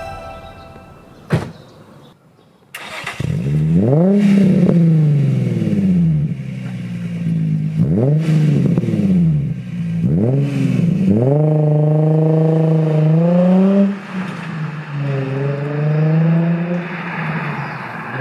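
Nissan Stagea 350S's 3.5-litre V6 through a Kakimoto Kai aftermarket exhaust, loud: after a sharp click it starts about three seconds in with a rev flare, is blipped a couple of times, then pulls away, its pitch rising under acceleration, dropping at a gear change near the end and climbing again.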